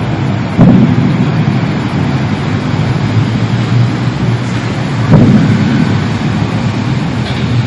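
A loud, low rumbling drone, the kind reported as a mysterious 'strange sound', swelling louder about half a second in and again about five seconds in.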